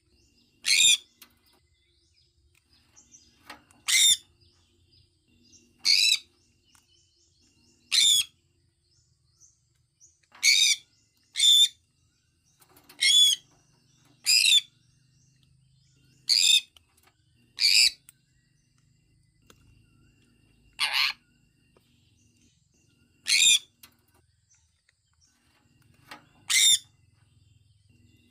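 Sun conure calling: short, high-pitched chirps about every one to three seconds, thirteen in all.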